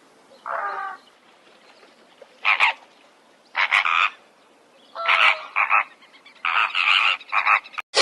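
A series of short, rough animal calls, about seven in all at uneven intervals, the later ones coming in quick pairs.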